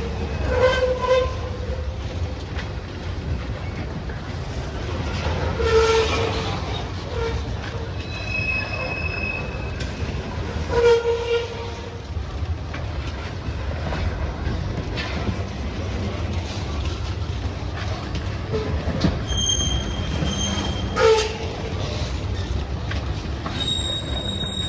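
Freight train cars rolling past with a steady low rumble. Metal wheels squeal briefly several times, with thin high-pitched squeals in between.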